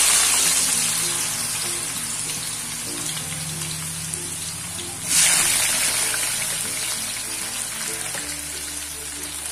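Raw sweet potato sticks dropped into hot cooking oil in a steel wok, setting off loud sizzling that slowly settles to a steady frying hiss. A second batch goes in about five seconds in, bringing another sudden burst of sizzling.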